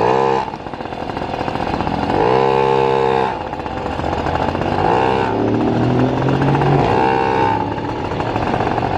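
A motor vehicle engine running close by and revving several times, its pitch rising and dropping, over steady street noise.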